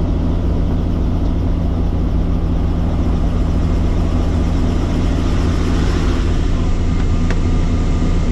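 Helicopter running, a loud steady drone with a deep hum and a rush of noise above it, unchanging throughout.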